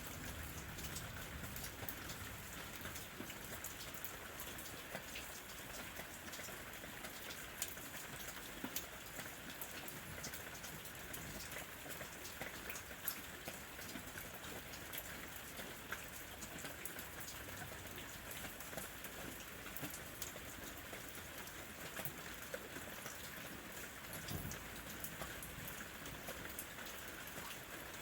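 Steady rain, with many separate drops ticking sharply against the noise of the downpour.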